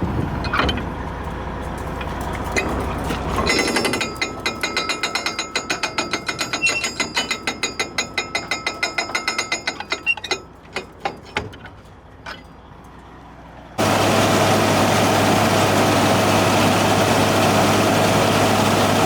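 Rapid mechanical clicking, like a ratchet, about four or five clicks a second, slowing and dying away. After a short lull a steady machine drone starts suddenly, near the end.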